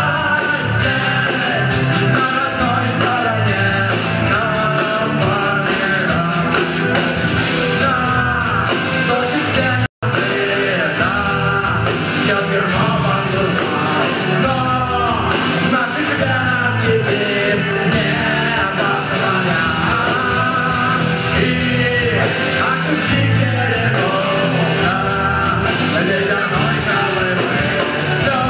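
Live rock music: a band playing with a singer over a steady drum beat. The sound cuts out completely for an instant about ten seconds in.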